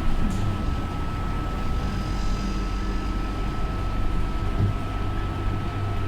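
Scania K230UB city bus's five-cylinder diesel engine running under way, heard on board as a steady low rumble with a thin, steady high-pitched whine over it.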